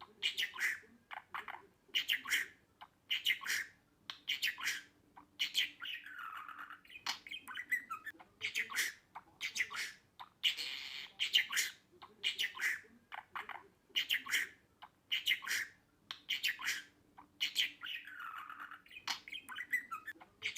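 Budgerigar chirping and squawking in quick, busy bursts of chatter. The run of calls seems to repeat about every ten seconds.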